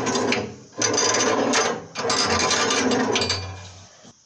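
Chimney-sweeping brush scrubbing soot inside a sandwich chimney flue in three scratchy bursts, the longest near the end.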